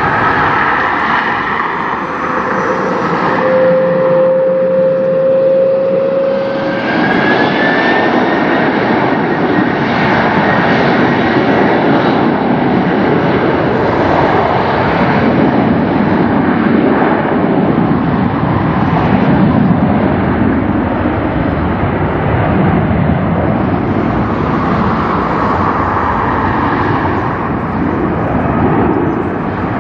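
Jet airliner engines at takeoff power: a loud, steady rushing noise, with a whining tone that rises in pitch a few seconds in.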